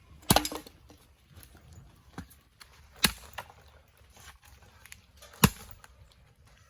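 Sharp cracks of wood around a wood cooking fire: three loud ones about two and a half seconds apart, with fainter snaps between.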